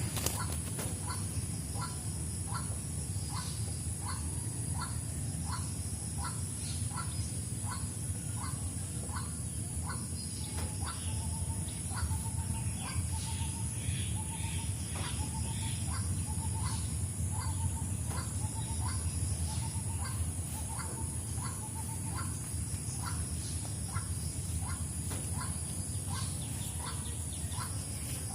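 A bird calls over and over in short notes, about two a second. Through the middle a second series of flatter, lower notes joins it, about one a second. A steady high hiss sits under the calls.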